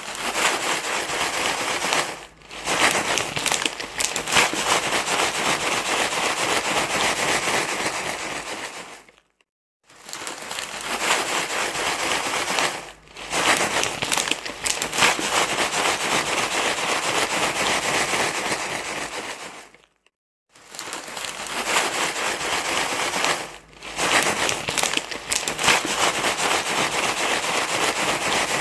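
Dense crinkling, crumpling rustle. It goes in a repeating loop of about ten seconds that breaks off into a short silence twice, with a brief dip a couple of seconds into each pass.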